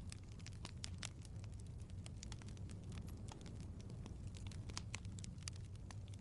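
Wood fire crackling: a low steady rumble of flame with irregular sharp pops and snaps, several a second.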